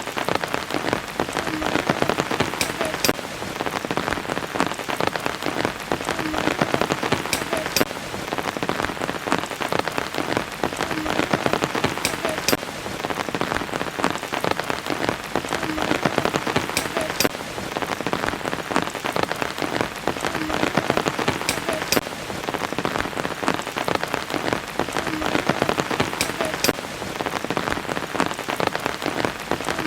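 Steady rain falling, a dense patter of drops with sharper drip taps recurring every few seconds.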